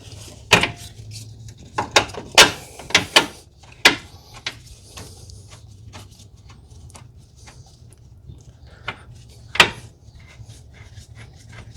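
Scattered clinks and knocks of hand tools and suspension parts being handled during control arm reinstallation. They come mostly in the first few seconds, with one more sharp knock later on, over a low steady hum.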